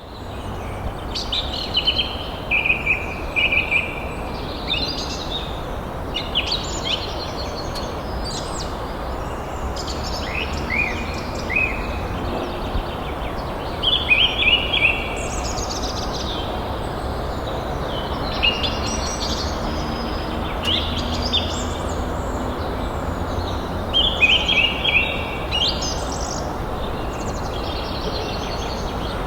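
Forest songbirds chirping in quick bursts of repeated, sweeping notes every few seconds over a steady background hiss.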